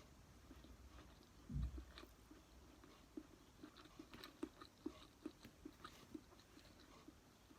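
A person chewing food close to the microphone: faint, wet mouth clicks, about two or three a second for a few seconds. A single dull low thump comes about one and a half seconds in.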